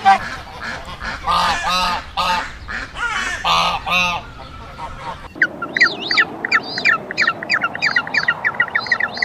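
A large bird giving a series of about eight short, harsh, loud calls, each a fraction of a second long. About five seconds in the sound cuts to a fast run of high, falling chirps from small birds, three or four a second.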